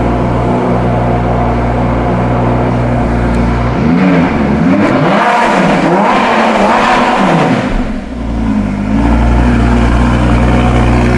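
Lamborghini Gallardo Spyder's V10 engine idling, then blipped several times in quick rises and falls of revs for about four seconds in the middle, before settling back to a steady idle.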